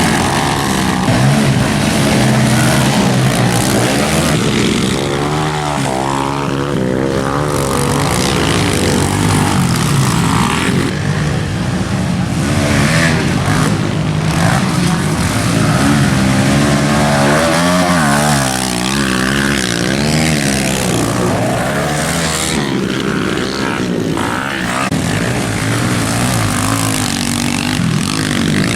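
Small pit bike engines running and revving, their pitch rising and falling over and over as the throttle opens and closes.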